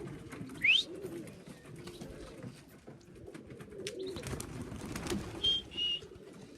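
Young racing pigeons cooing steadily around the loft. About a second in there is a short, loud rising whistle, a few sharp clicks come around four to five seconds in, and two brief high whistles follow near the end.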